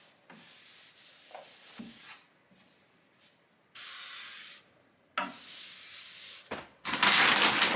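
Disposable surface-cleaning wipe rubbing over the white shelves of an IKEA cube shelf unit, dusting it in several separate strokes with short pauses between them. The last stroke, just before the end, is the loudest.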